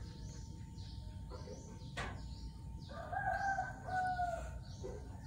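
A bird calling in the background: one drawn-out, level call lasting about a second, starting a little after three seconds in. A single sharp click sounds about two seconds in, over faint background noise.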